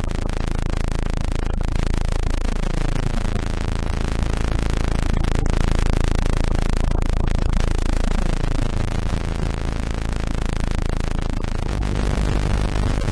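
Electronically generated tones, a dense steady drone of many pitches at once, with the tones gliding in slow sweeping arcs that repeat about every four seconds.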